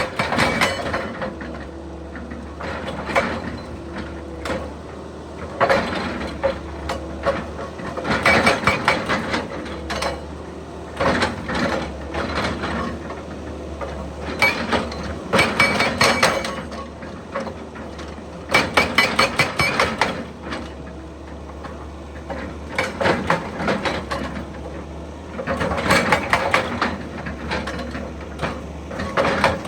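Excavator engine running steadily under repeated bursts of rapid hammering, about every two to three seconds: a hydraulic breaker hammer pounding rock.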